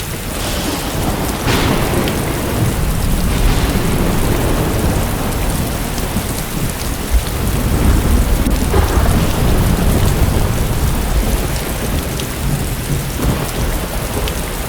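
Heavy rain pouring down in the season's first downpour, a continuous hiss with a deep low rumble under it that swells and eases, likely thunder.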